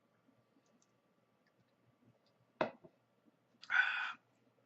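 A sharp click with a fainter click just after it, then about a second later a short, soft hiss.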